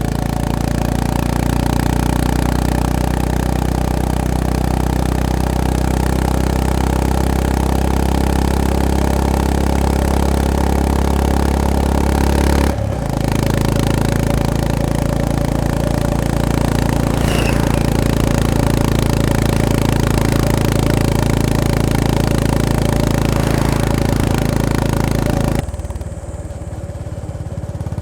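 Honda GB350S single-cylinder engine running steadily while riding. About 13 seconds in it dips briefly, as in a gear change, and settles on a new steady note. Near the end the throttle comes off and it goes quieter.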